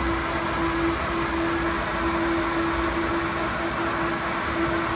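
A steady machine hum: an even noise with one constant mid-pitched tone, with no change in speed or level.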